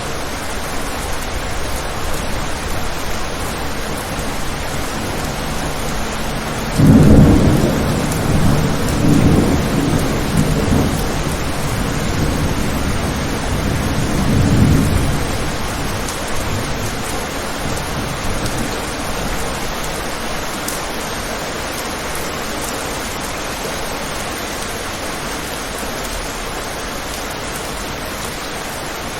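Steady heavy rain falling, with a clap of thunder about seven seconds in that rumbles on in several rolling surges for about eight seconds before fading back into the rain.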